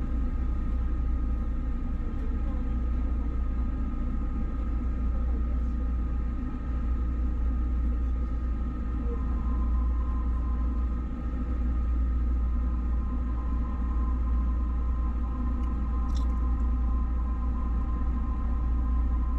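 A moving train heard from inside: a steady low rumble with a constant whine, and a higher whine tone joining about halfway through.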